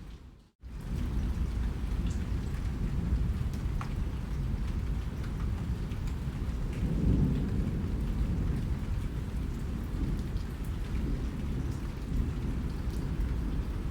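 Steady heavy rain with a low rolling rumble of thunder under it, swelling about seven seconds in, and scattered sharp drip ticks. The sound cuts out completely for a moment about half a second in.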